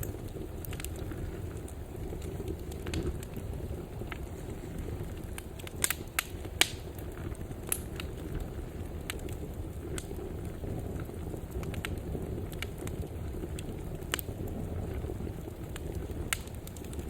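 Wood fire burning in a fireplace: a steady low rumble of flames with irregular sharp crackles and pops, a few louder snaps about six seconds in.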